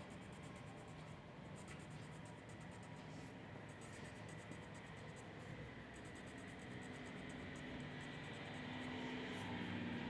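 Faint scratching of a drawing tool on paper in runs of quick, repeated strokes with short pauses between them, over a faint steady hum.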